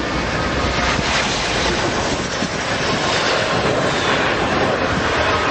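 Jet aircraft engines running loud and steady, a dense rushing noise with a faint high whine above it.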